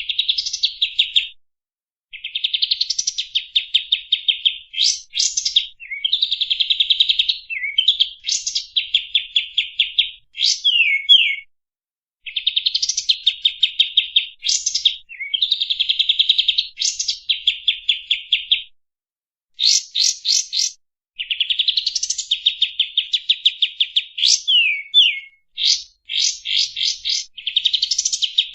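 Kapas tembak songbird singing: phrase after phrase of rapid, even trills and quick down-slurred whistled notes, each a second or two long, with short pauses between. It is a masteran recording, the song played to cage birds for them to learn.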